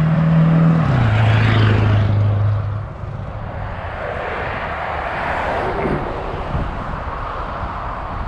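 A motor vehicle's engine drones steadily, drops to a lower pitch about a second in, and fades near three seconds. After that there is a steady rushing noise.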